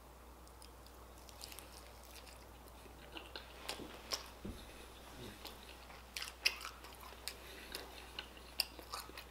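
Close-up chewing of crispy fried chicken in a Hot Cheeto crust: faint, scattered crunches and mouth clicks, the sharpest about six and a half seconds in.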